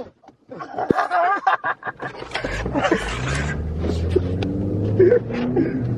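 Car engine running, its low hum rising slowly in pitch from about two seconds in; brief laughter and voices come before it.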